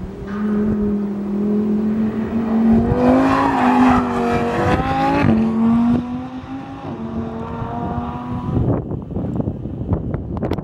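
Lamborghini Huracán's V10 engine running as the car drives past, loudest about three to five seconds in, with its pitch stepping down just after. The note then fades as it pulls away, breaking into a run of sharp cracks near the end.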